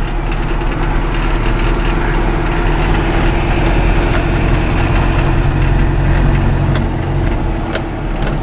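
Vehicle engine running at low speed, heard from inside the cabin while driving slowly over a dirt track: a steady low hum with a few light rattles.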